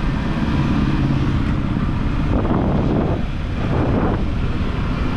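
Yamaha R15 V4's single-cylinder engine running steadily while the motorcycle is under way, with wind noise on the microphone.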